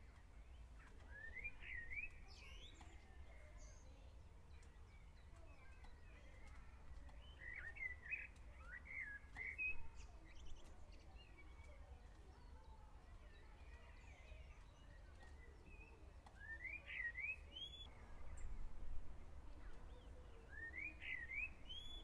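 A small bird singing faintly, four short phrases of quick rising chirps spaced several seconds apart, over a low steady hum.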